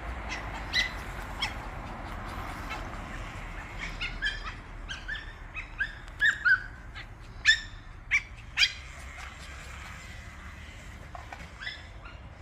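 Small dog yapping: a run of short, high-pitched yaps, loudest in the middle stretch, with a few more near the end.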